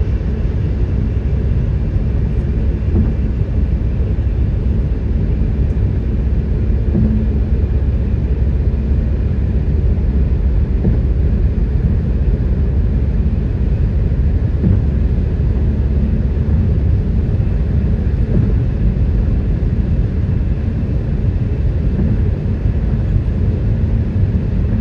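Steady low rumble of road and engine noise inside a moving vehicle's cabin, with no sudden events.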